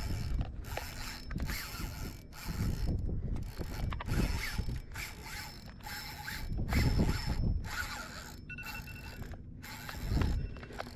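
Fishing reel clicking and buzzing in short repeated bursts with brief breaks between them, as a large jack crevalle fights on the line.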